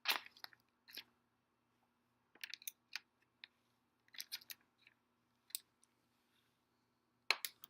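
Dominoes toppling: scattered light clicks, a few bunched in quick runs, over a faint steady low hum.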